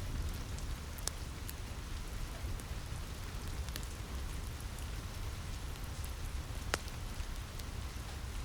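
Steady rain falling on a cabin roof, with a deep rumble under it and scattered sharp crackles from a wood fire; the loudest crackle comes a little under seven seconds in.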